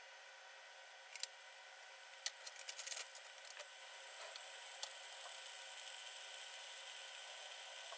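Frozen gyoza starting to cook in a lidded frying pan: faint crackles and pops in the first few seconds, then a steady sizzle that builds from about halfway. This is the frozen coating of oil and water melting and frying on the hot pan.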